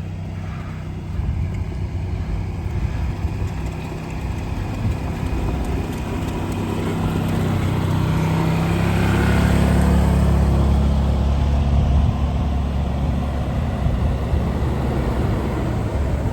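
A vehicle's engine running steadily with road noise, growing louder toward the middle and staying strong.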